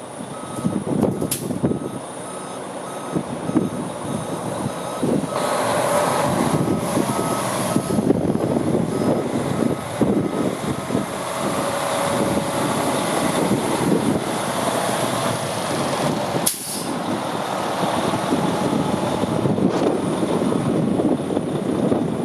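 Freightliner Coronado heavy truck's diesel engine running as the truck moves, getting louder about five seconds in, with a back-up alarm beeping at an even pace through the first half. About two-thirds of the way through there is a sharp click and a short burst of air hiss, like an air brake.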